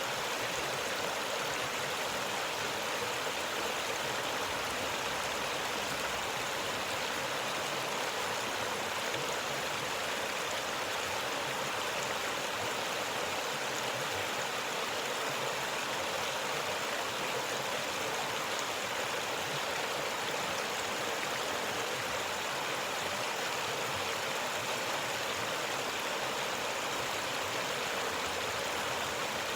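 Clear mountain river flowing over stones: a steady, even rush of water.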